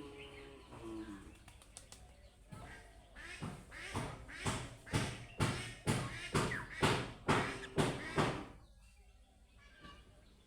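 Budgerigars chirping: a fast run of short, sharp calls, about two to three a second, for several seconds in the middle.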